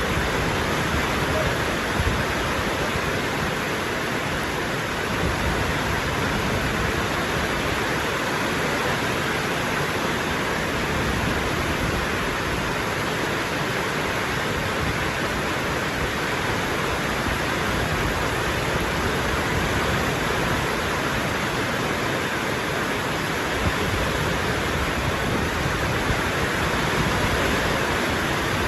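Steady rain falling, a constant even hiss with no break.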